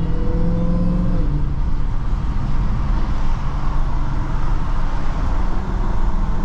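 Dodge Charger Hellcat's supercharged V8 pulling with a slightly rising note for about a second, then easing off. After that a steady hiss of tyres on the wet road carries on.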